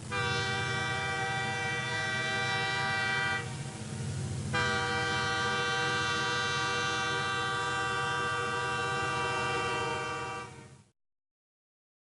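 A horn sounding a steady, many-toned chord in two long blasts, a short one and then a longer one, over a low rumble; it cuts off shortly before the end.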